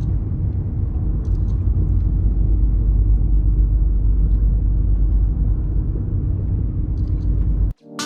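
Wind buffeting an open-air camera microphone: a steady low rumble that cuts off suddenly near the end.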